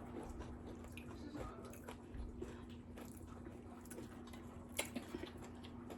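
Faint chewing and small wet mouth clicks from someone eating a breakfast sandwich, over a steady low hum.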